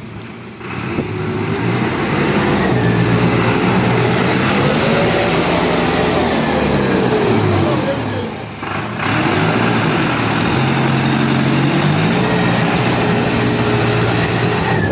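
A 4×4 tractor's diesel engine revving up and down under load. Its pitch climbs and falls, drops away briefly about halfway through, then rises again and holds steady near the end.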